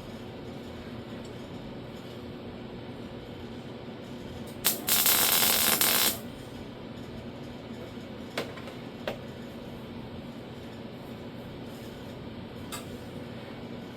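A welder laying a tack weld on sheet-metal door skin: a click, then a loud crackling hiss for about a second and a half, followed by a few single metallic ticks over a steady background hum.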